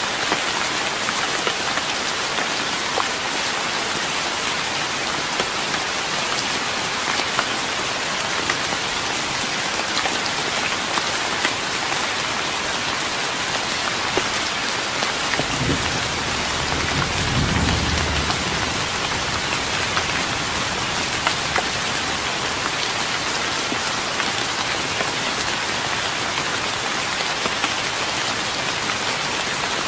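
Steady rain pattering on a wooden deck, with individual drops ticking through the hiss. About halfway through there is a brief low rumble.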